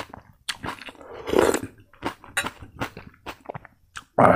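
Close-miked chewing of crispy fried pork: a run of crunchy bites and mouth clicks, with a louder crunch about a second in and the loudest burst near the end.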